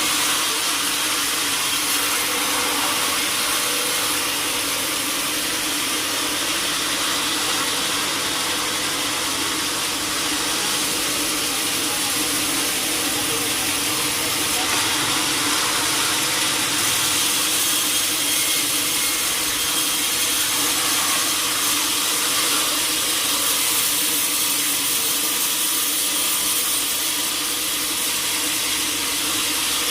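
Sawmill machinery running steadily, an even, unbroken mechanical noise with a steady hum underneath.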